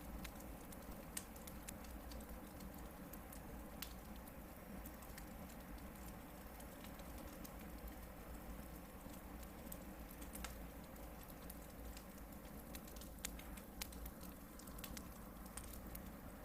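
Hardwood campfire burning, with frequent small crackles and several louder pops scattered through, over a steady low rumble.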